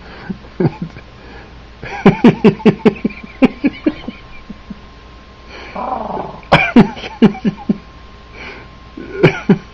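Three bouts of a person's laughter, each a quick run of short ha-ha pulses fading away.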